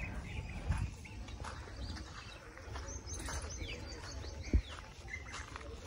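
Faint birds chirping over a steady low rumble, with one dull thump about four and a half seconds in.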